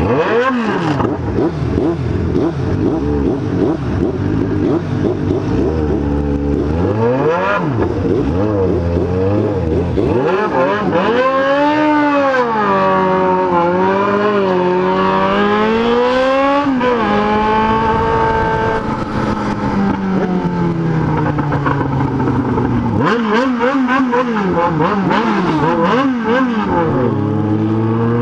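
Yamaha XJ6 N motorcycle's inline-four engine, loud, accelerating and easing off on the road. Its pitch climbs and drops several times as it pulls through the gears, with a steadier stretch in the middle.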